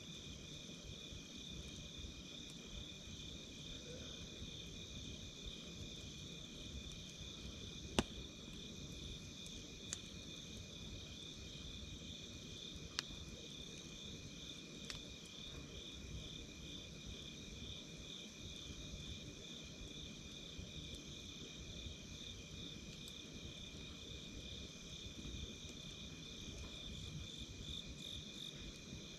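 Night insects chirping steadily in two high pitches, with the low hiss of a campfire beneath and a few sharp crackling pops from the burning wood, the loudest about eight seconds in.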